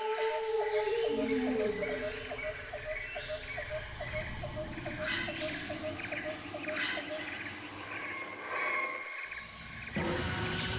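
Jungle ambience of many overlapping bird calls over a steady hiss of insects, with a short chirp repeating about three times a second that stops about seven seconds in. The mix changes abruptly near the end.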